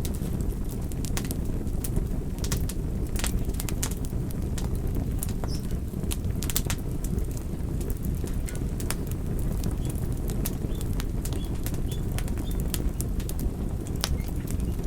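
Wood fire crackling: irregular sharp snaps and pops over a steady low rumble of the burning.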